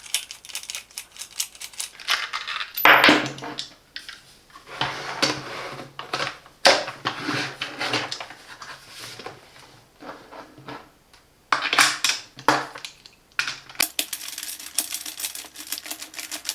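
Irregular clicks, taps and short scrapes of a screwdriver working a screw out of a plastic vacuum-cleaner handle, with the hard plastic parts being handled.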